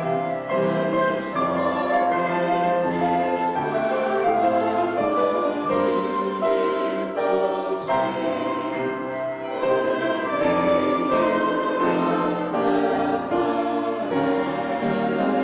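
Church choir singing, with many voices holding and moving between sustained notes.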